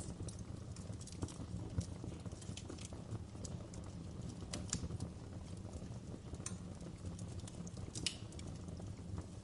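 Wood fire crackling in a fireplace: irregular sharp pops and snaps over a steady low rumble of burning logs, with the loudest snaps about halfway through and again near the end.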